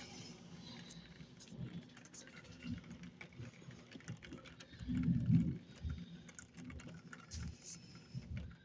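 Rain pattering with many small irregular taps during a thunderstorm, and a short low rumble about five seconds in.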